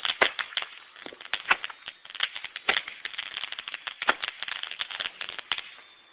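Fireworks crackling: a rapid, irregular run of sharp cracks and pops that dies away about five and a half seconds in.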